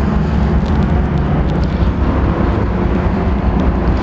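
2007 Harley-Davidson Softail Deuce's 96-cubic-inch V-twin running steadily through shotgun pipes with Vance & Hines slip-on mufflers.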